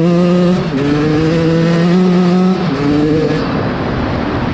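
Dirt bike engine running hard at high revs. Its pitch climbs slowly, then drops sharply about half a second in and again a little past the middle. In the last part the engine note gives way to a loud rushing noise.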